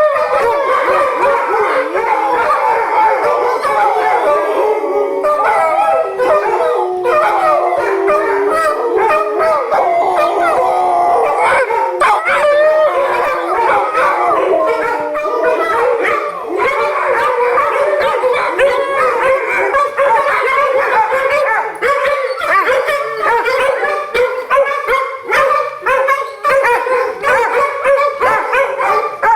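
Several pit bulls howling together in a continuous, overlapping chorus, breaking up into shorter barks and yips over the last several seconds.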